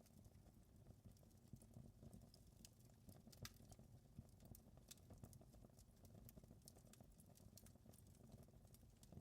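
Faint wood fire crackling: irregular small pops and snaps over a soft steady low rumble.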